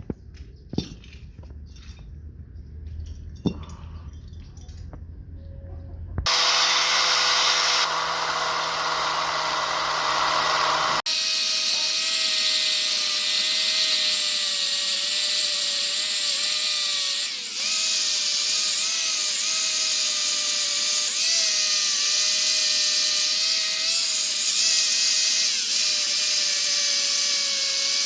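A few light clicks of handling, then a power tool starts about six seconds in and runs steadily with a high whine. Its pitch wavers slightly, as if under load against the work. The sound changes abruptly about eleven seconds in.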